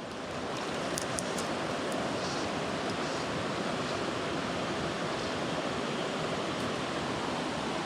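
Small mountain stream flowing steadily over rocks, an even rushing wash of water.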